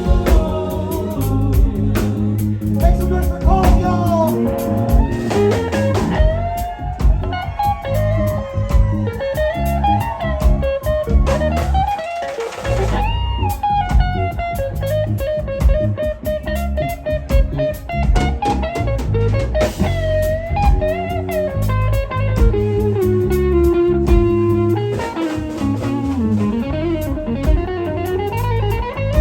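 Live rock band playing an instrumental passage: an electric guitar lead with bending, sliding notes over bass guitar and a drum kit.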